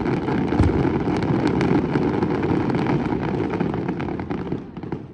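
Fireworks display: a low rumble with dense crackling and popping from many bursting shells, fading gradually and cutting off near the end.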